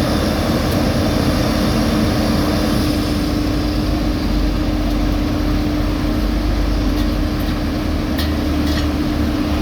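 Heavy road-paving machinery running steadily: a diesel engine drone with a constant hum, and a few faint clicks near the end.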